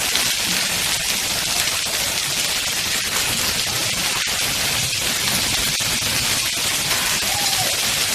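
Heavy rain falling steadily: a dense, even hiss of rain on the ground and surfaces.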